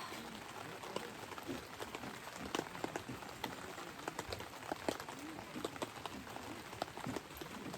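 Steady rain falling, with many separate drops ticking at irregular intervals.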